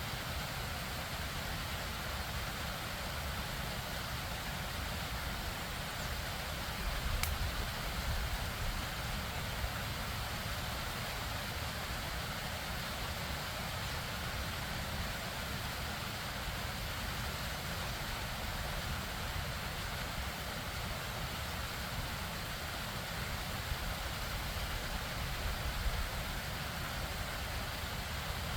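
Steady rushing of a stream and waterfall, an even wash of water noise with a low rumble beneath.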